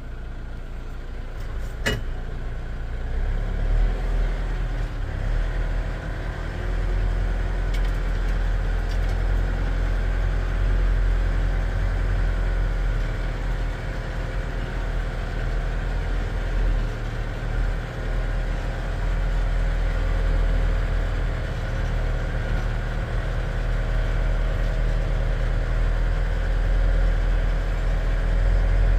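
Skidder's engine running steadily with a low rumble, with a single sharp click about two seconds in.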